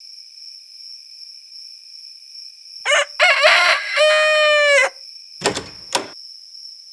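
A rooster crowing once: a two-second cock-a-doodle-doo ending in a long held note. It is followed by two short knocks and runs over a steady high whine.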